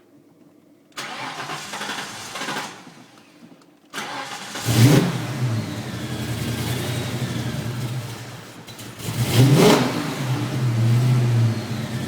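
Supercharged 1987 Mustang GT's 5.0 V8 with a Weiand 174 blower, cold-starting. The starter cranks for about three seconds, the engine catches with a loud burst and settles into an idle, and it is revved once briefly later on.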